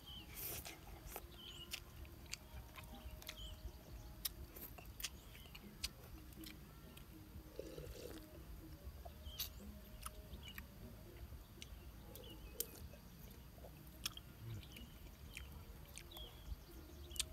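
Faint chewing of noodles, with scattered small clicks.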